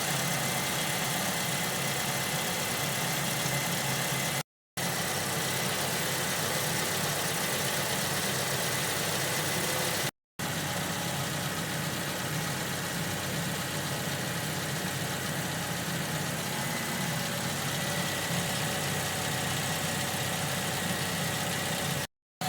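Toyota Camry 2.4 L four-cylinder engine idling steadily while it warms up with the radiator cap off, to bleed air from the freshly refilled cooling system. The steady running is broken by three brief dropouts to silence.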